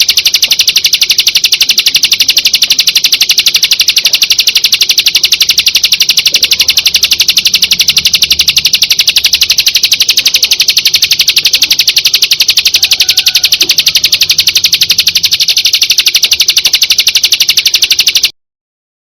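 Recorded birdsong from a masteran, a song-training track for long-tailed shrikes: a fast, even chirping trill repeating many times a second. It cuts off suddenly near the end.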